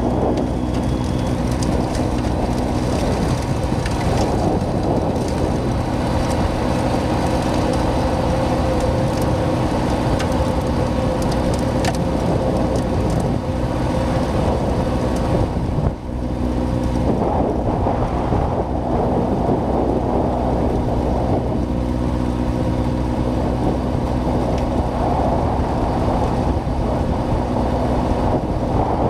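John Deere 6110R tractor's diesel engine running steadily while pushing snow, with a short break about halfway through.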